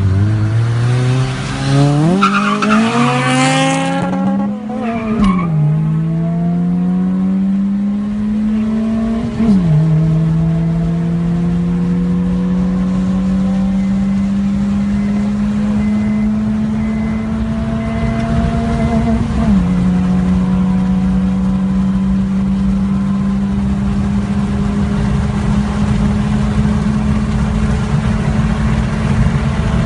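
Toyota Allex ZZE123G's 2ZZ-GE VVTL-i four-cylinder engine and exhaust accelerating hard. The revs climb steeply to a high pitch in the first few seconds, drop at a gear change about four and a half seconds in, then climb slowly through further upshifts near ten and twenty seconds.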